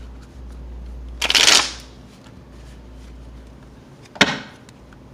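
Tarot cards being shuffled: a loud riffling burst lasting about half a second, then a short sharp snap of the cards about three seconds later.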